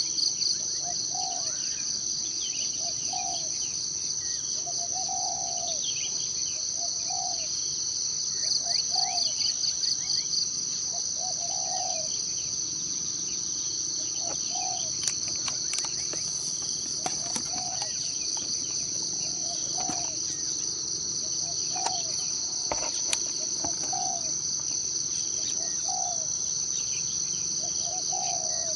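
Forest ambience dominated by a steady high-pitched insect drone of crickets, with a faster pulsing trill in the same range at the start and again about a third of the way in. A low call repeats about every second and a half throughout. A few faint bird chirps and scattered light clicks sound over it.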